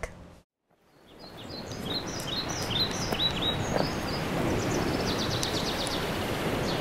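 Outdoor ambience fading in, a steady hiss with a bird calling over it: a run of short, falling chirps about three a second, then a quicker, fainter trill.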